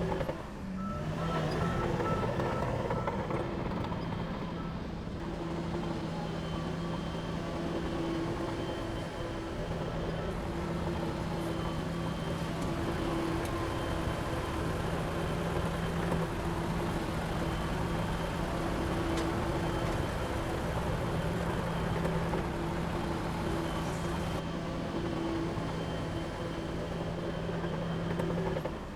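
Heavy diesel engine of construction machinery running steadily, a continuous low engine hum.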